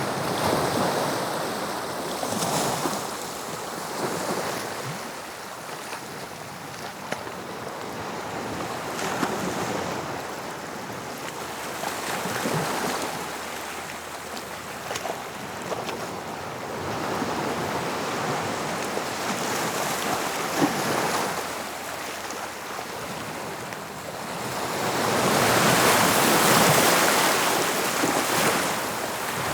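Sea waves breaking and washing up the shore, the surf swelling and falling back in slow surges, with a larger wave breaking near the end.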